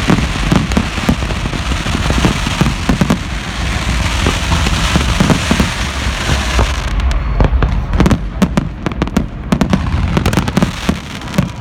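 Fireworks going off many at once: a dense crackling wash of bangs for the first several seconds, then, from about seven seconds in, a looser run of separate sharp bangs.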